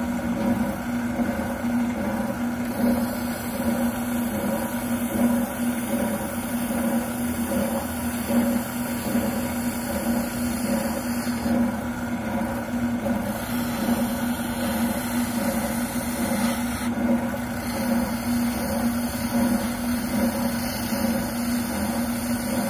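Wilton oscillating sander running at a steady hum while a shotgun buttplate is sanded down against it. A higher hiss of abrasive on the workpiece comes and goes as the part is pressed on and eased off.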